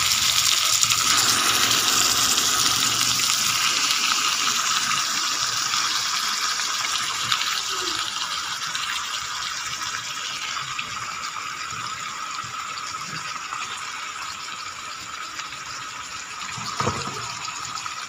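Raw chicken pieces sizzling in hot oil in an aluminium wok: a steady frying hiss that slowly dies down. A single knock near the end.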